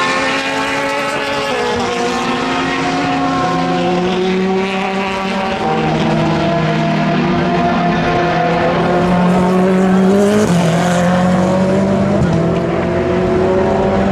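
Endurance race car engines running hard on track. The engine note climbs and then drops sharply at upshifts, about six seconds in and again past ten seconds.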